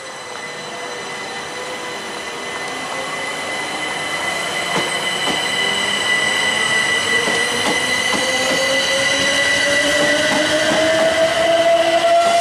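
Electric train getting louder, with a whine that rises steadily in pitch in the second half and wheels clicking over the rail joints.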